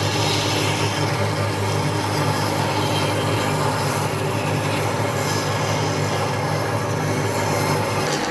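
A power tool running steadily with a dense, even noise and a low hum, cutting off just before the end.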